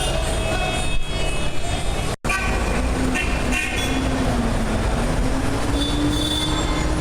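Train running on the tracks, a steady loud rumble. A brief dropout about two seconds in marks a cut, after which a long tone slowly rises in pitch through the rest of the sound.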